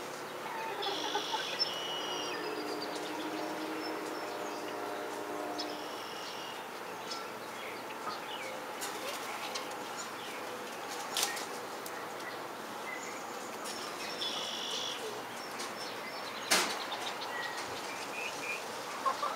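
Birds calling: three short, high chirping calls of about a second each, with two sharp knocks, the louder one near the end.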